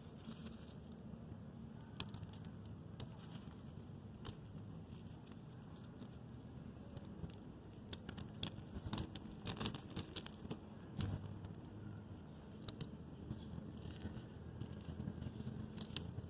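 Reformed gym chalk blocks being crushed and crumbled by hand: soft crunches with scattered crisp cracks, thickest about nine to ten seconds in, over a steady low hum.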